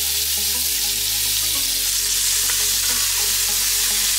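Sliced sausage and chopped onion sizzling steadily in hot olive oil in a stainless steel pot, stirred with a wooden spoon.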